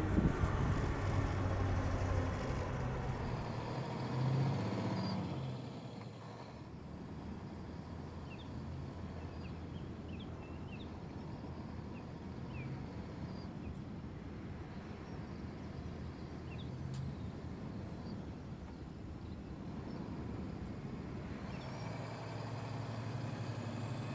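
Volvo FMX truck's diesel engine running, loud for the first few seconds, then fading to a quieter low rumble, and coming up loud again near the end.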